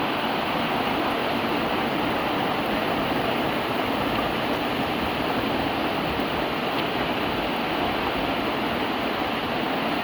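Steady rain falling, an even hiss at a constant level throughout.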